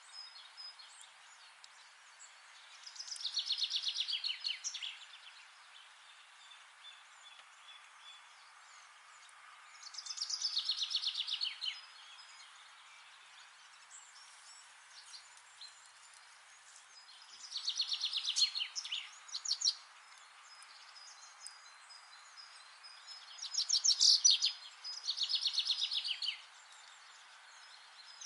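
A songbird singing a short, fast trilled phrase five times, a few seconds apart, over a steady hiss of forest background ambience.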